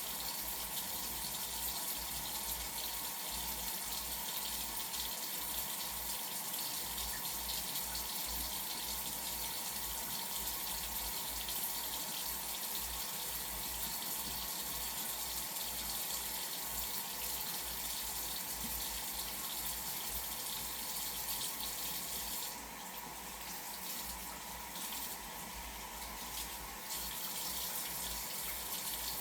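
Bathroom sink tap running steadily, water streaming into the basin during a face rinse; the sound dips and changes twice a few seconds before the end as the flow is broken.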